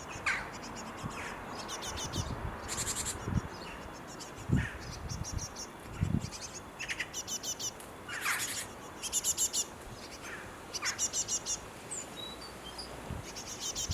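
Small birds chirping in quick runs of high-pitched notes, several runs spread through the clip. A few short low thumps stand out, the loudest about four and six seconds in.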